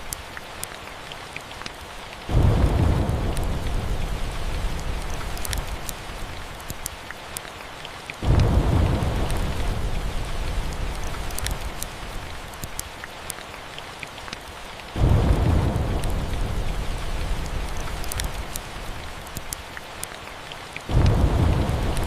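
Steady rain, with four rolls of thunder about six seconds apart, each starting suddenly and dying away over several seconds.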